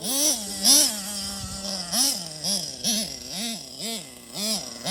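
Small nitro RC car engine being blipped on the throttle, its pitch rising and falling about twice a second, holding a steady lower note for about a second near the start.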